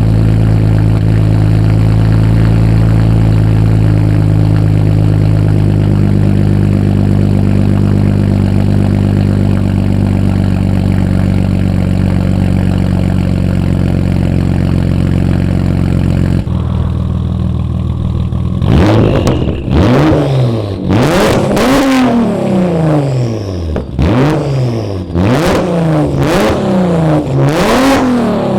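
Audi B5 S4's twin-turbo V6 idling steadily through a straight-piped exhaust with the resonator removed, shortly after a cold start. About two-thirds of the way in, it is revved in a run of quick blips, each climbing sharply in pitch and falling back.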